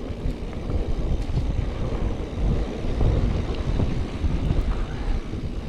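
Wind buffeting the microphone over the rolling and rattling of a mountain bike on a dry dirt trail: an uneven low rumble with no engine note.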